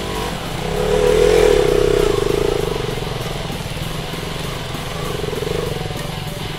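Stunt motorcycle engine running and being revved, swelling louder about a second in and again around five seconds in, with music underneath.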